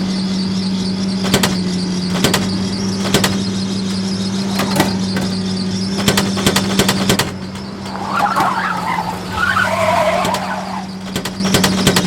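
An engine running with a steady hum, with occasional sharp knocks. A squealing noise comes in about two-thirds of the way through and lasts a few seconds.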